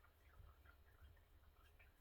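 Near silence, with faint, scattered soft ticks and clicks from a Quaker parrot having its head feathers scratched.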